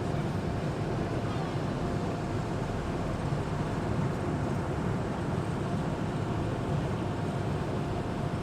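Engine of an amphibious Duck tour boat running steadily while it cruises on the river, mixed with an even wash of water and wind noise.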